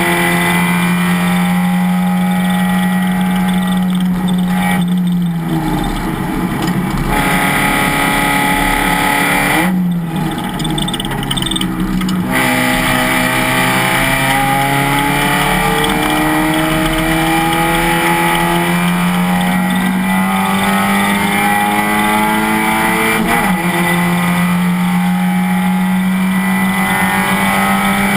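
Race car engine heard from on board at high revs. Its note drops twice in the first half as the driver lifts and the revs fall, then climbs steadily through a long pull and dips sharply once near the end, as at a gear change.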